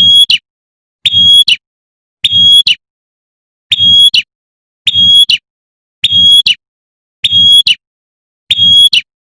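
Female prinia (prenjak) giving its sharp 'tembakan' call: a short, steady, high whistled note repeated evenly about every second and a bit, eight times, with a low buzz under each call.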